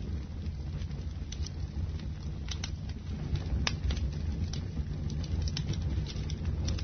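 Bonfire burning: the fire makes a steady low rumble, with sharp crackles and pops of burning wood every second or so.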